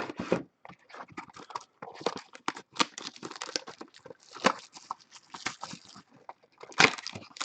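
Cardboard trading card boxes and packs being handled and opened: irregular taps, knocks and crinkly rustles of cardboard and wrappers.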